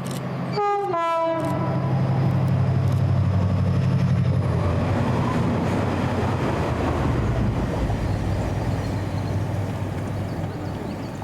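Freight train passing close by: the diesel locomotive gives a short two-tone horn, high then low, under a second in, and its engine drones loudly for the first few seconds. The rumble of the wagons follows and slowly fades.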